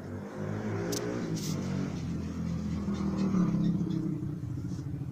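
A motorcycle engine running, growing louder around three seconds in and then easing back.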